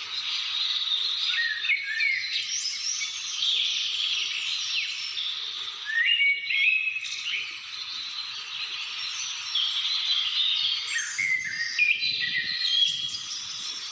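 A chorus of several songbirds chirping and whistling at once, with short overlapping calls and quick rising and falling notes, over a steady background hiss.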